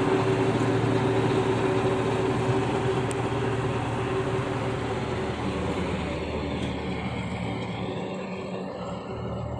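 John Deere 5210 tractor's diesel engine running at a steady speed, gradually growing quieter toward the end.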